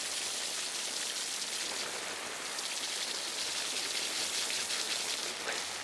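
Water spraying steadily onto a 1957 VW Beetle magnesium transmission case, rinsing off the mild-acid aluminium brightener that has just been left to work on the metal.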